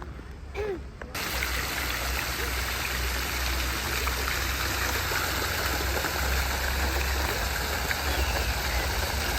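Steady rushing of running water, which starts suddenly about a second in and carries on unchanged.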